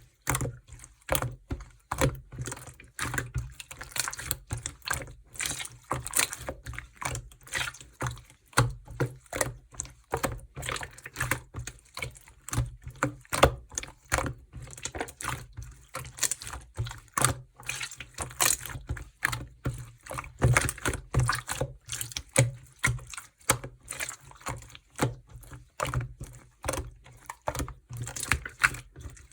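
Jelly-textured slime being squeezed, pressed and stretched by hand, giving a dense, irregular run of wet clicks, pops and squelches.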